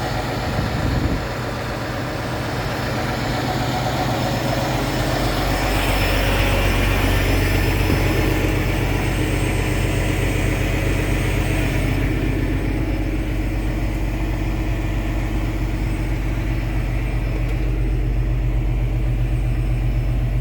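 A large diesel truck engine idling steadily with a low, even rumble. There is a brief thump about a second in, and a rushing hiss joins for several seconds in the middle.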